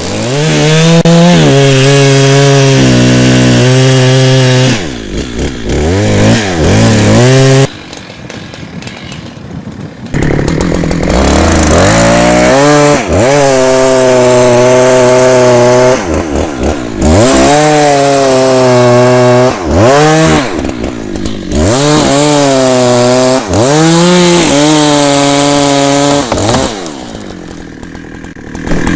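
Two-stroke chainsaw running at full throttle, as if cutting, with the engine dropping back and revving up again several times.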